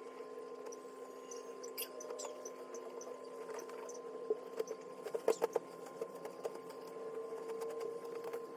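Steady mechanical hum at a fixed pitch, with scattered light clicks and small knocks of handling, several sharper knocks coming close together about five seconds in.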